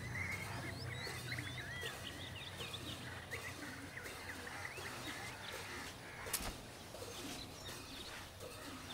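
Small birds chirping and twittering in quick, short calls, thickest in the first few seconds, over a steady low hum. A single short knock comes about six seconds in.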